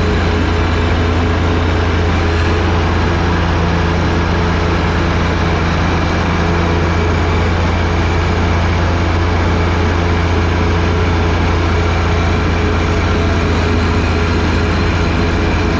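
John Deere 1025R's three-cylinder diesel engine running steadily with a deep, even drone, powering the front-mounted 47-inch heavy-duty snowblower.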